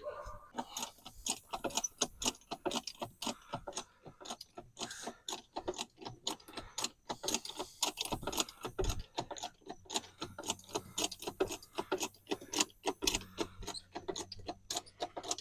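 Light metallic clicking and clinking of tools or hardware being handled, many irregular sharp clicks a second.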